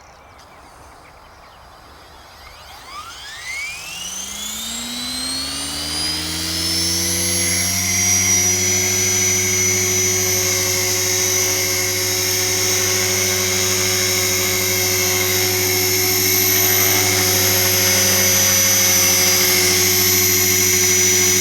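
Align T-Rex 470LP electric RC helicopter spooling up: the motor and rotor whine rises in pitch over about five seconds, starting a few seconds in. It then holds a steady whine at head speed as the helicopter flies gently.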